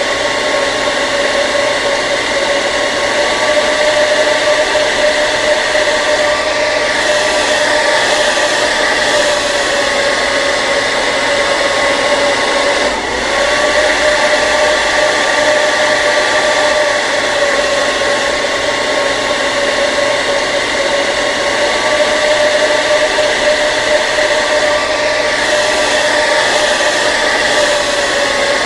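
Hair dryer running steadily: an even rush of air with a steady motor whine, dipping briefly about halfway through.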